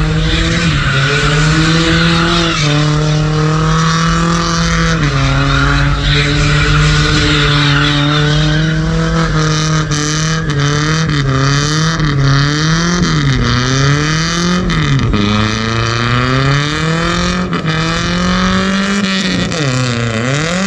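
Loud vehicle engines, likely trucks, running continuously, the engine note holding steady, then dipping and rising again several times, most sharply toward the end.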